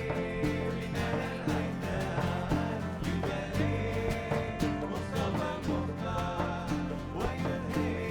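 Live band music: plucked strings and bass over a steady percussive beat.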